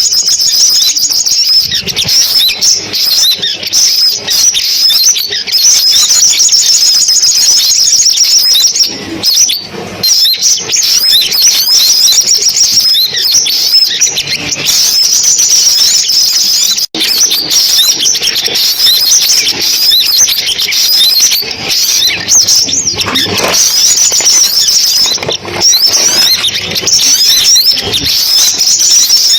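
Recorded sunbird song: a dense, continuous run of rapid, high-pitched twittering chirps, the kind of call played through a speaker to lure sunbirds. It breaks off for an instant about seventeen seconds in.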